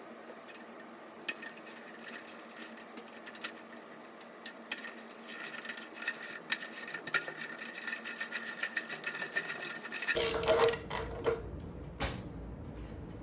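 Ratchet wrench clicking rapidly as a bolt is worked loose, a fast even run of clicks, followed by a louder metallic clatter of handling about ten seconds in.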